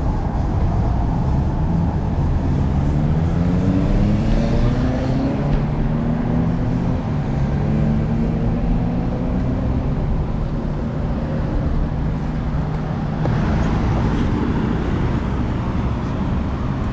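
A motor vehicle's engine running close by in road traffic, its pitch rising over a few seconds and then holding steady, over a constant low rumble of road and wind noise.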